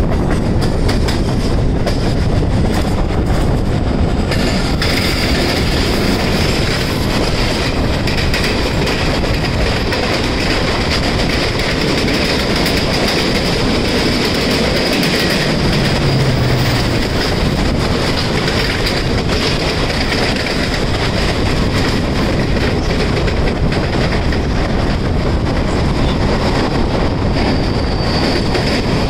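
Express passenger train running at speed, heard from its own coach: steady wheel-and-rail rumble with clickety-clack over the rail joints and rushing air. A steady high whine joins about five seconds in and holds.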